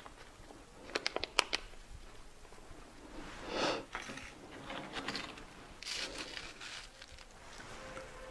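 Close-miked eating sounds: a quick run of sharp clicks about a second in, then several short crunchy bursts of chewing and food handling.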